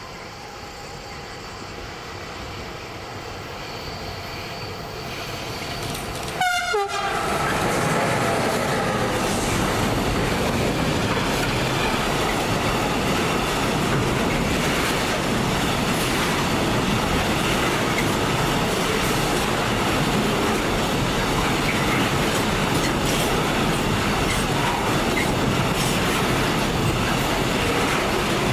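A train approaching, growing steadily louder, with a short horn sound falling in pitch about six seconds in. The train then runs past close by, with a loud, steady rumble of wheels on the rails for the rest of the time.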